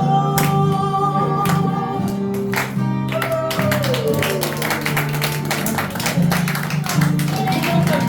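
Live band music: strummed guitar under a sustained melody line that slides down in pitch about halfway through.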